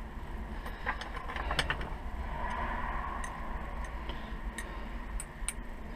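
Scattered light clicks and taps of a small metal part being handled, over a steady low hum.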